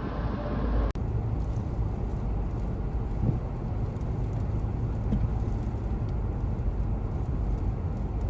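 Steady low outdoor rumble, with an abrupt cut to a different recording about a second in.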